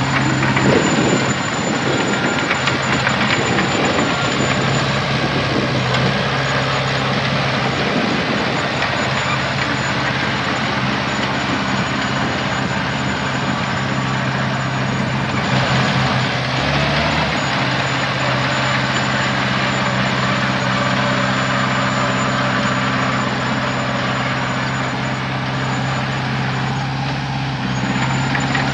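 Heavy diesel engine of earthmoving equipment running steadily, with a faint high whine above it and a brief change in engine pitch about two-thirds of the way through.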